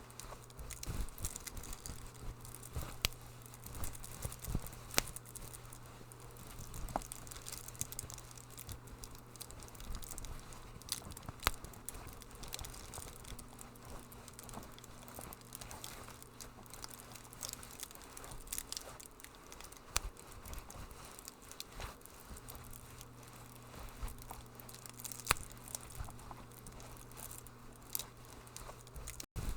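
Wood fire in a fireplace crackling, with irregular sharp pops and snaps over a steady low rumble and hiss. A very brief dropout just before the end.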